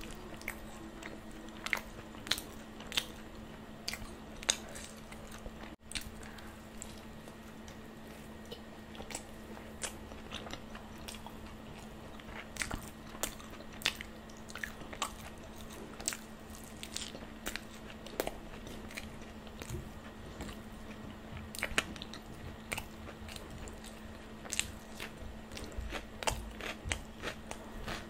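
Close-miked chewing of chole bhature (fried bhatura bread with chickpea curry), with many sharp mouth clicks scattered through it and a steady low hum underneath.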